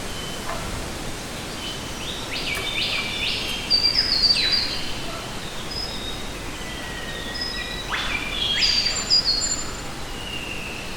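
Several birds calling over a steady hiss of forest ambience. There are bursts of quick, high chirps that step down in pitch, about two seconds in and again about eight seconds in, with scattered single whistles between.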